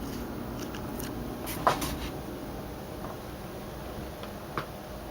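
Cooling fans of a water-cooled gaming PC with two EVGA GTX 670 FTW graphics cards in SLI, running with a steady low whir at idle. A few faint clicks come through, the loudest about one and a half seconds in.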